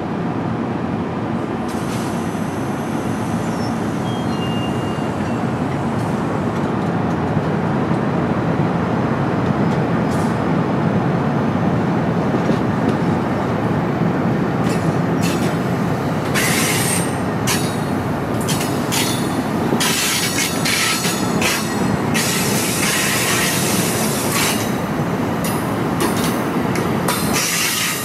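Commuter train passing with a steady rumble of wheels on rails. From a little past halfway, high squeals and screeches come repeatedly from the steel wheels.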